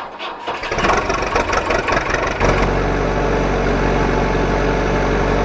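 A motor vehicle engine starting: a couple of seconds of uneven cranking, then it catches about two and a half seconds in and settles into a steady low idle. The sound cuts in and cuts off abruptly.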